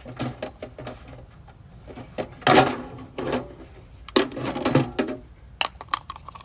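Plastic bucket and feeder parts being handled and worked on by hand: a string of rough scrapes and knocks, loudest about two and a half seconds in, with a few sharp clicks near the end.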